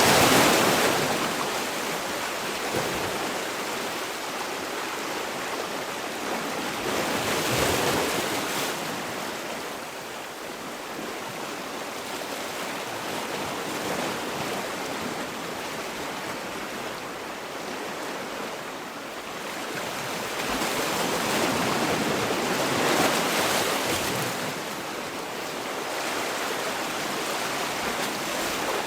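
Sea waves breaking and washing on the shore, a steady rush of surf that swells and eases every several seconds.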